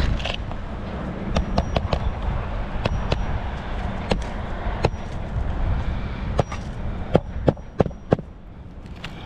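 Hammer driving a roofing nail through asphalt shingles: a series of sharp strikes with a slight metallic ring, coming in a quick run of about three a second near the end. Low wind rumble on the microphone underneath.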